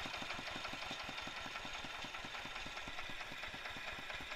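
Tractor diesel engine idling slowly and evenly, at about six or seven firing beats a second. It runs smoothly, which the mechanic puts down to its balancer, on freshly fitted piston rings that are still bedding in.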